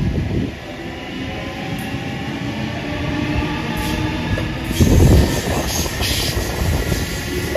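Sydney Trains double-deck electric train running past close by and heading off round a curve. Its wheels rumble on the rails, with a louder low rumble about five seconds in and wheel squeal in the second half.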